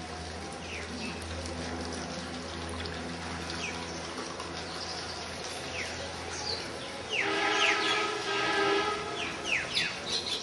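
Small birds chirping in quick downward chirps, a few at first and then many, louder and quicker, from about seven seconds in. A steady low hum runs under them and stops at about the same point.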